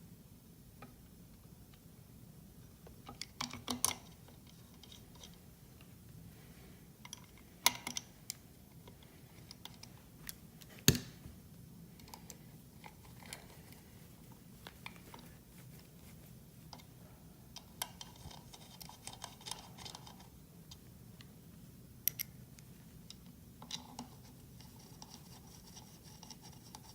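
Small metal parts being handled and fitted by hand on a small two-stroke engine's clutch: scattered light clicks and short scrapes, the sharpest about eleven seconds in, over a faint low hum.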